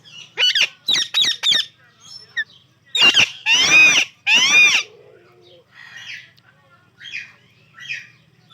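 Indian ringneck and alexandrine parrots calling: four quick sharp calls in the first couple of seconds, then three loud, drawn-out screeches about three seconds in, followed by softer scattered chirps.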